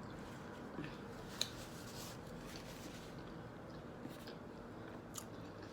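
Faint eating sounds: a few soft, short mouth clicks and smacks over a low steady room hum.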